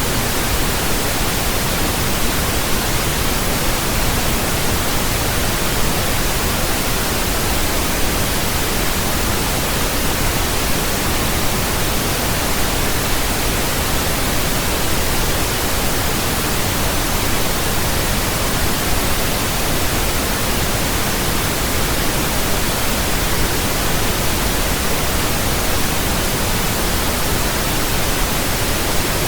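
Steady pink noise: an even, unchanging hiss spread across all pitches, fuller in the bass than white noise.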